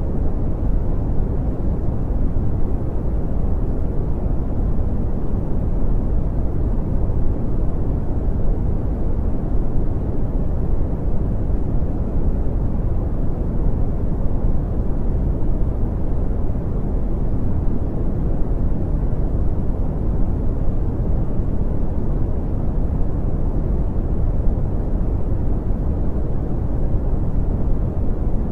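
Brown noise: a steady, deep rumbling hiss, strongest in the lows and dull in the highs, without change.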